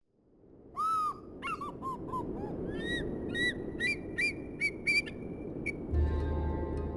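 A bird calling repeatedly: short arching calls, a quick falling run of notes, then higher rising calls, over a steady rushing background. Music with a low drone comes in about six seconds in.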